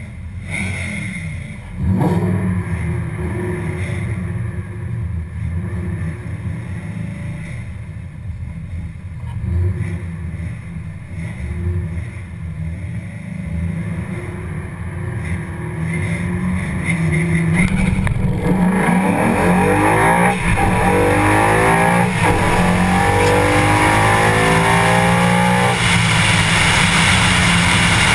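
2014 Mustang GT's 5.0 Coyote V8 rumbling and blipping while staging, then launching at full throttle about eighteen seconds in. The revs rise again and again through the gears for about eight seconds on an eighth-mile drag pass. It ends in a steady rush of wind and engine as the car lifts off at speed near the end.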